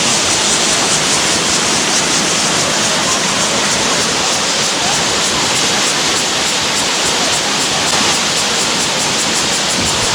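Waterfall rushing: a loud, steady roar of falling water that doesn't change.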